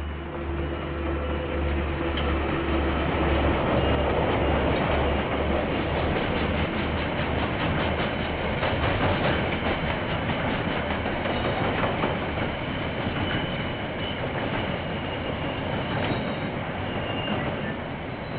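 KiwiRail train passing: a diesel locomotive's low hum comes in first, then the wagons rumble past with a rapid clatter of wheels over the rail joints. A few faint high wheel squeals come near the end as it fades.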